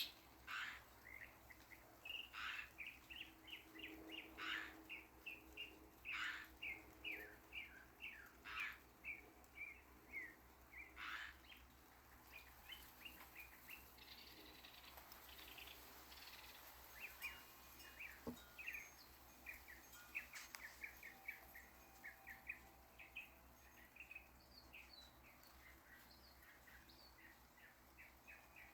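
Faint birds chirping: runs of short, quick chirps, several a second, with a few louder calls in the first half.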